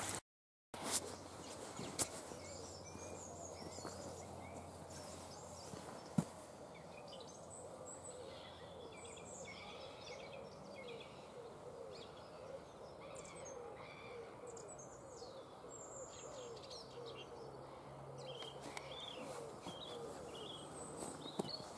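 Small birds chirping and singing throughout, over a faint steady outdoor hiss, with a couple of short sharp clicks about two and six seconds in.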